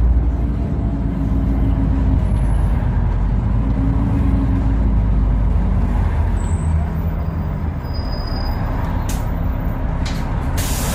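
LiAZ 5292 city bus heard from inside the cabin: engine running under way with a low rumble and a pitched drone that eases off about six seconds in as the bus slows for a stop. A hiss of compressed air, from the brakes or doors, starts near the end.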